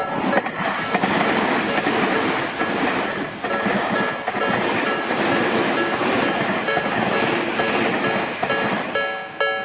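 A train running through a Japanese level crossing, a steady rush of wheel and rail noise. The crossing's electronic warning bell strikes about twice a second underneath and comes through clearly again near the end as the train clears.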